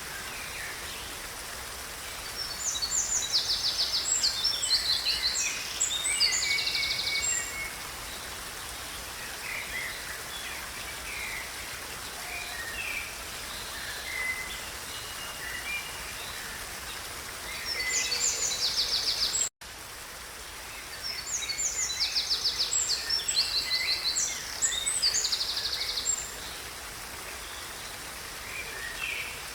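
Songbirds singing over a steady background hiss. Bird song comes in two long bursts of rapid high trilled notes, one a couple of seconds in and one about two-thirds through, with shorter scattered calls between. The sound cuts out for an instant just before the second burst.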